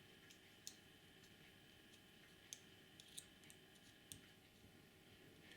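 Near silence with five faint, sharp clicks spread unevenly through it: small parts of a model locomotive being handled.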